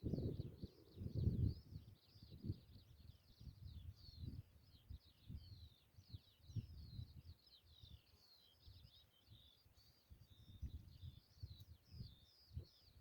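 Songbirds singing without a break, a dense run of quick, high chirping notes. Under them, irregular low rumbles of wind on the microphone, loudest in the first second and a half.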